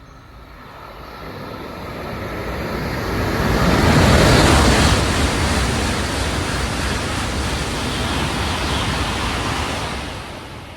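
Shinkansen bullet train passing at high speed without stopping: a rushing noise that builds over about four seconds, stays loud for several seconds as the cars go by, then fades near the end.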